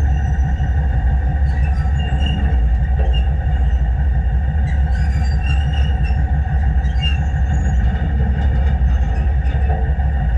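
Narrow-gauge train running along the rails, heard from a camera mounted on the locomotive: a loud, steady low rumble with scattered short high squeaks and clicks.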